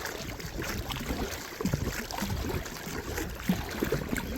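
Water splashing and trickling as a paddle dips and pulls alongside a small paddled boat, with light irregular knocks.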